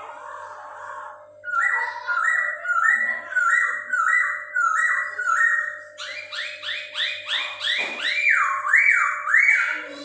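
A Poksay Hongkong (hwamei) singing loud, clear whistled phrases. It repeats one rising note about twice a second for several seconds, switches to a quicker run of notes, and ends on three slow swooping notes. A faint steady hum runs underneath.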